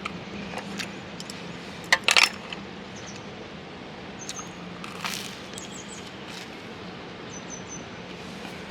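Scattered light clicks and knocks, with a quick cluster of sharp knocks about two seconds in, over a faint steady low hum. A few faint, short high chirps come near the middle and near the end.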